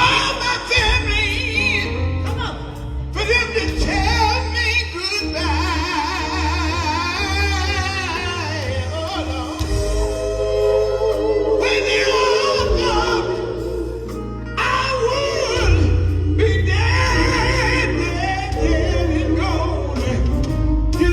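Live gospel group singing with band accompaniment: a lead voice with wide vibrato over a heavy, steady bass line.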